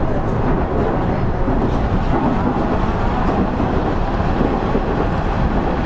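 KiHa 110 series diesel railcar running along the line: a steady, loud rumble of the diesel engine and wheels on the rails.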